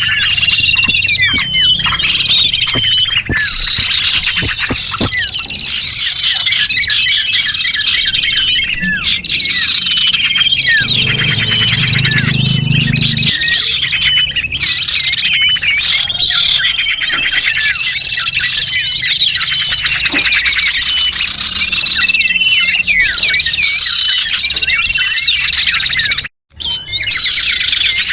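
Many small songbirds chirping and twittering densely, with overlapping quick high calls that never pause. The sound cuts out briefly about two seconds before the end, then resumes.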